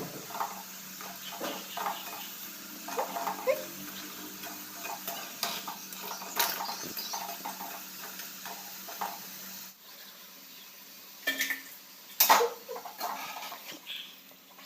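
Metal kitchen utensils clinking, knocking and scraping against cookware in irregular short strokes, over a steady low hum that stops about ten seconds in.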